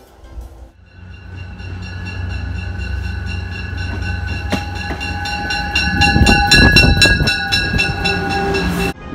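Commuter rail train pulling into a platform and passing close. A low rumble and steady high-pitched tones build up, then a quickening run of wheel clicks over the rail joints grows loudest as the cars go by, and the sound cuts off suddenly near the end.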